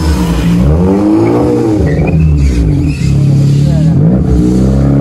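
A car engine being revved up and down over and over, the pitch rising and falling in about three or four swells, as a hatchback is driven in circles on a concrete lot.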